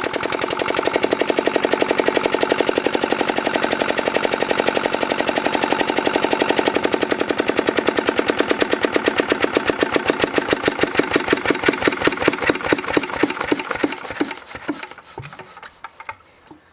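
Lister SW1 water-cooled single-cylinder diesel running fast with an even, rapid beat of firing strokes; the owner puts the high speed down to governor springs that are too heavy. About fourteen seconds in the beats spread out and the engine runs down to a stop.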